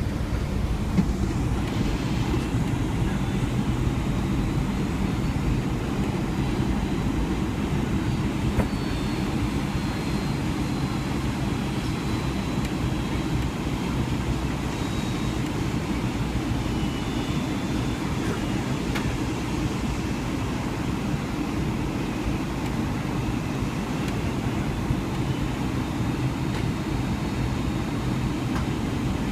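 Steady cabin noise aboard a Boeing 757 airliner: a constant low rumble of engines and airflow.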